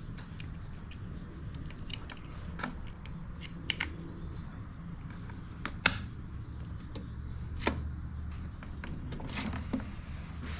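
Hands working on the plastic parts of a Honda EU2000i inverter generator: scattered clicks and light taps of parts being handled and fitted, with a few sharper clicks about six, eight and nine and a half seconds in, over a steady low hum.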